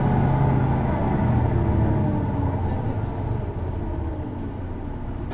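Isuzu Erga city bus's diesel engine heard from inside the cabin, its note falling and getting quieter as the bus slows down.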